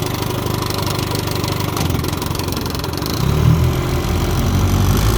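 A 1958 Johnson FD-12 18 hp two-stroke twin outboard motor is running at low speed. It gets louder and heavier about three seconds in.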